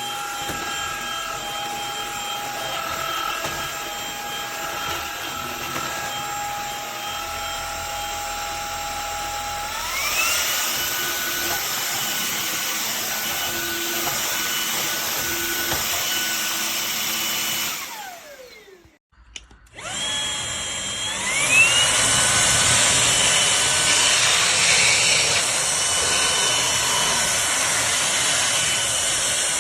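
Cordless stick vacuum's brushless motor running with a steady whine. About ten seconds in its pitch glides up to a higher power setting. A few seconds later it winds down to a stop, then starts again and steps up to the higher setting once more.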